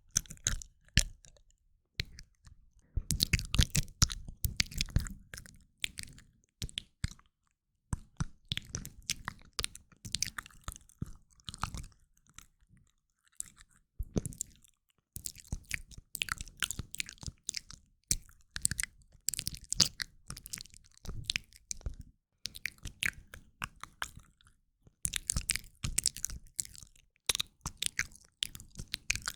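Close-miked ASMR mouth sounds: wet tongue and lip clicks, smacks and crackles in bursts of a few seconds, with short pauses between, moving between the left and right ears.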